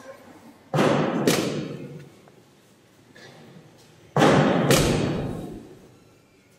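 A drum beating a slow, solemn pattern: two strikes about half a second apart, repeating about every three and a half seconds, each ringing out with a long echo in a large church.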